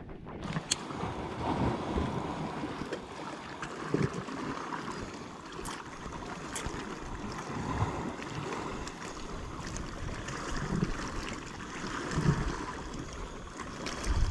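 Sea water lapping and sloshing against a fishing kayak's hull, with a few light clicks.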